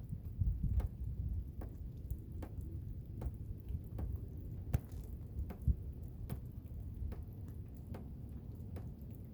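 Blizzard wind rumbling low and steady, with sharp scattered ticks about once a second.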